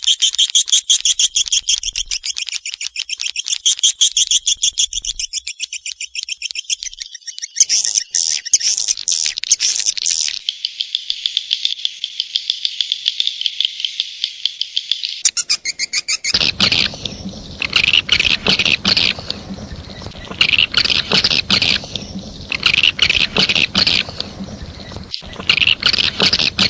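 Swiftlet calls: fast, high chirps run together into a dense twittering trill. This is a swiftlet lure-call sound of the kind played to draw swiftlets to a nesting house. About sixteen seconds in, the sound changes to louder, separate bursts of chirps over a low hum and hiss.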